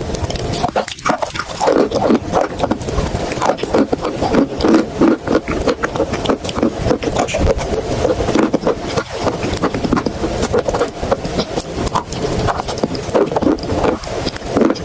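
Chalk and clay paste being crushed and scraped, a dense run of crunching and crackling.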